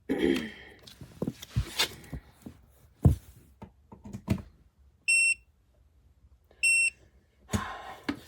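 Clicks and knocks of a small electric space heater being handled and plugged in, then two short high beeps from its control panel, about a second and a half apart, as it responds to power or a button press.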